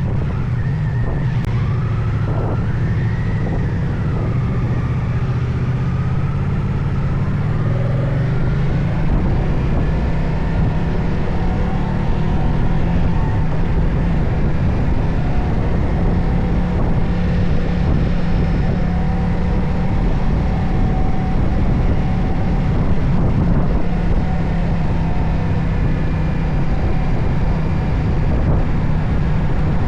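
Moto Guzzi Stelvio's transverse V-twin engine running under way, mixed with steady wind and road rush. The engine note shifts in pitch over the first several seconds, then settles into a steady cruise.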